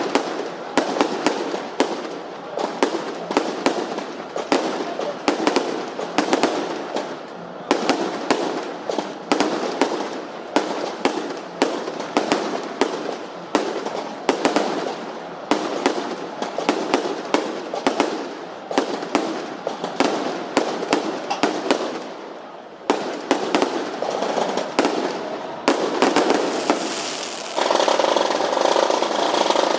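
Fireworks going off in a rapid series of sharp bangs and cracks, several a second. Near the end they give way to a steadier, denser sound.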